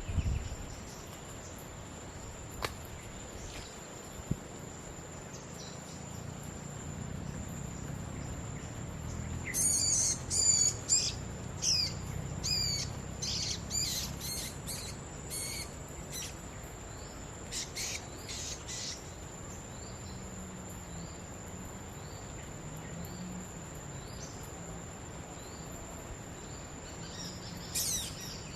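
Small birds chirping and calling: dense bursts of sharp, high chirps in the middle, then a run of short rising notes about one a second, and another brief burst near the end. A steady high-pitched tone runs underneath.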